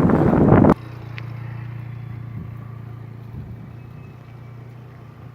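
A loud rush of wind on the microphone that cuts off abruptly under a second in, then the steady low hum of an idling engine, slowly fading.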